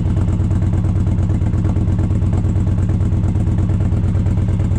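Indian Challenger's V-twin idling steadily through TAB Performance aftermarket exhaust with Zombie baffles, a loud, even pulsing idle.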